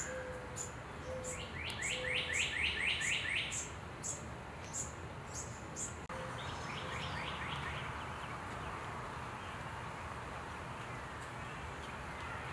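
Birds calling and singing outdoors: a high, short chirp repeats about twice a second, and early on a song of about nine quick downward-slurred notes sounds over it. About halfway through the sound shifts to fainter calls over a steady outdoor hiss.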